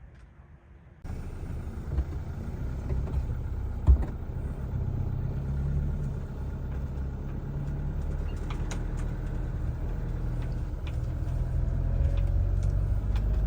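Motorhome on the move, heard inside the cab: a steady low engine and road rumble that comes in suddenly about a second in, with a sharp knock about four seconds in and light rattles and clicks.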